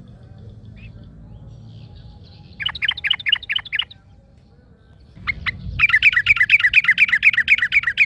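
Yellow-vented bulbul (trucukan) singing: a short burst of about seven quick notes around three seconds in, then a longer, louder run of rapidly repeated notes from about six seconds in.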